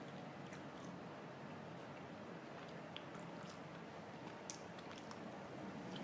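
A person chewing pizza close to the microphone: scattered faint, wet mouth clicks over a steady hiss, with one sharper click about four and a half seconds in.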